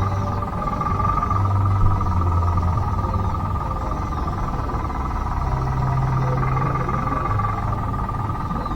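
Remote-control bulldozer running: a steady high whine from its small electric drive motor and gears, over a low hum that shifts in pitch a few times.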